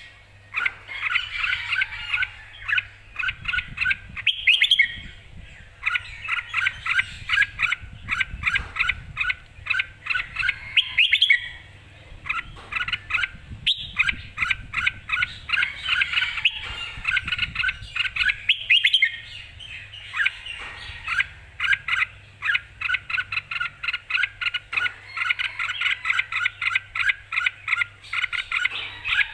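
Red-whiskered bulbul singing: fast runs of short, clear notes in phrases a second or two long, one after another with brief pauses.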